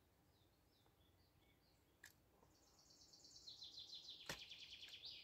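Songbird singing over quiet background: a few soft high chirps, then a fast, high, rapidly repeated trill that starts about halfway in and runs on for a couple of seconds. Two sharp clicks come about 2 seconds in and again during the trill.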